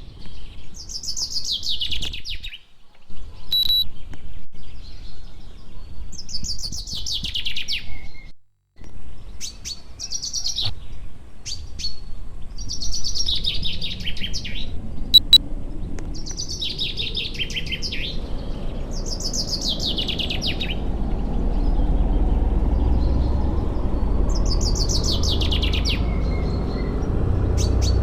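A songbird singing the same short, descending trilled phrase over and over, a few seconds apart. From about two-thirds of the way in, a low steady rushing noise rises underneath and holds.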